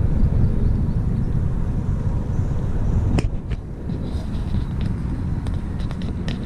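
Low, steady rumble of wind on the microphone and tyres on the trail while riding a bicycle, with a few short sharp ticks from about halfway through.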